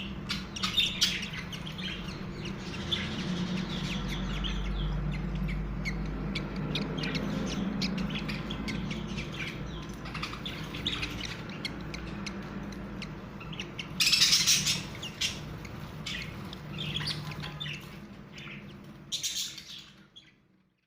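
Young budgerigars chirping in rapid short calls, with two louder harsh squawks about two-thirds of the way in and again near the end, over a steady low hum.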